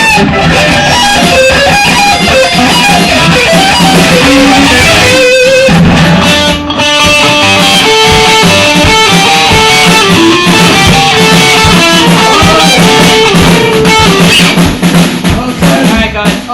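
A rock band playing loud: electric guitars over a drum kit, with a brief break about five seconds in.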